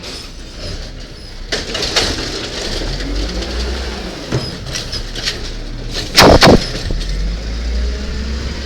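Garbage truck engine running with a low rumble, with scattered knocks and clanks and one very loud bang a little after six seconds in.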